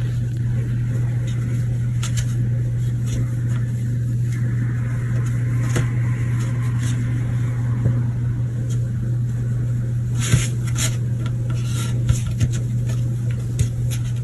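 A steady low mechanical hum with scattered light clicks and clatters, most of them between about ten and thirteen seconds in.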